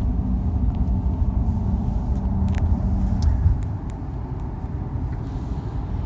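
Steady low rumble of road and engine noise heard inside a moving car's cabin, easing slightly a little past halfway, with a few faint clicks between about two and a half and three and a half seconds in.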